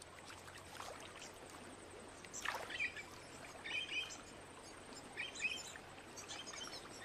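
Quiet riverside ambience: a soft wash of water with a few short bird chirps and calls scattered through, and one falling sweep about two and a half seconds in.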